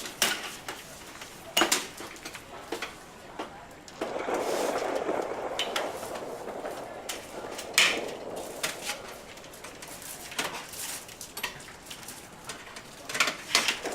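Irregular knocks, clinks and clatter of household objects being picked up, moved and set down, a few of them sharp and loud, over a steady rustling noise that rises about four seconds in.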